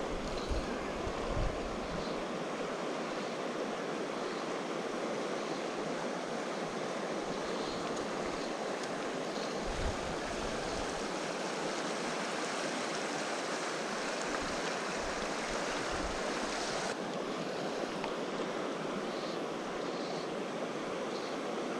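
Shallow river water rushing steadily over a riffle, a continuous even hiss, with a few brief low rumbles on the microphone. The highest part of the hiss drops slightly about seventeen seconds in.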